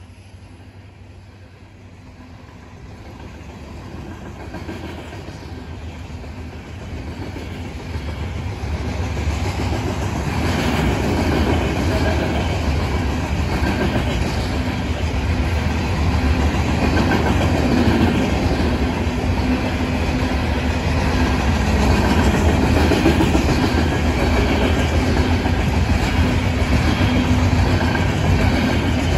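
Coal hopper cars of a freight train rolling past, steel wheels running on the rails. The rumble grows louder over the first ten seconds or so, then holds steady.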